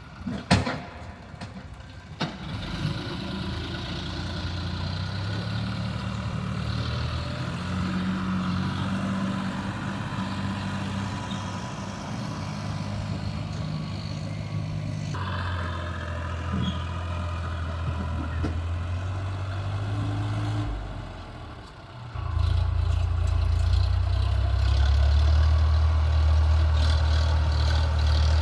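Tractor engine running steadily, with a sharp knock about half a second in. The engine sound dips briefly about 21 seconds in, then comes back louder and steady.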